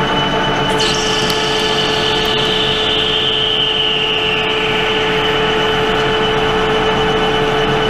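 Pratt & Whitney Model B lathe running while it cuts stainless steel under power crossfeed. About a second in, a higher cutting whine comes in and slides slowly down in pitch over the next few seconds.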